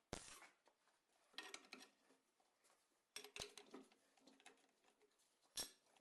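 Faint metallic clinks and rattles of hand tools and loose metal engine parts being handled, in four short clusters spread across a few seconds.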